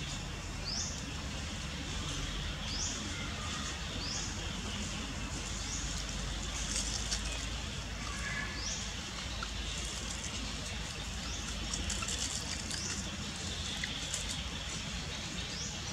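Outdoor forest ambience: a bird repeats a short, high rising chirp about once every second or so, over a steady low background hum and hiss.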